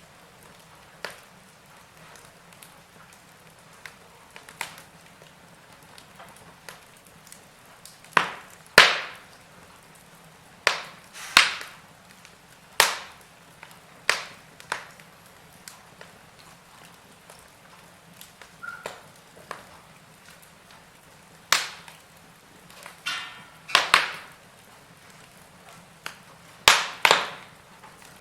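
Wood fire crackling in a fireplace: irregular sharp snaps and pops over a faint steady hiss, with the loudest cracks coming in clusters.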